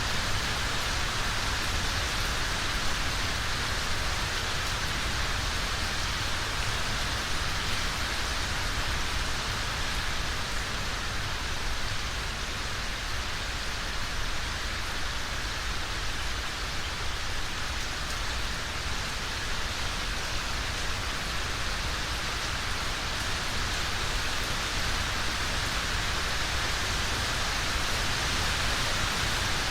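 Steady rainfall, an even hiss of rain with no change in intensity.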